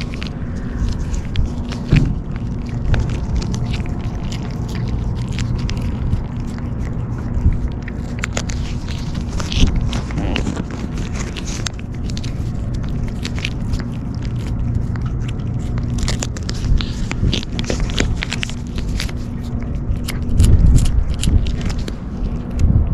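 Stray kittens eating cat food: many short crunching clicks and crackles over a steady low hum, louder about twenty seconds in.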